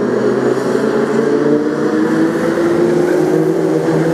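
A pack of BriSCA F2 stock car engines running hard in a race, a steady multi-engine drone whose pitch drifts slowly up and down.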